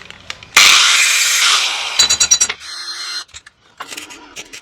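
Workshop tool noises: a loud hiss starts about half a second in and fades over a second or so. A quick run of sharp metallic clicks follows, then a brief steady tone and a few more clicks near the end.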